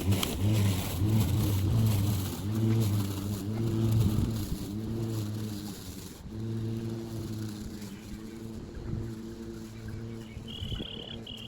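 Battery-powered lawn mower starting up and running as it cuts grass, its motor-and-blade hum wavering in pitch under changing load, a little quieter from about six seconds in.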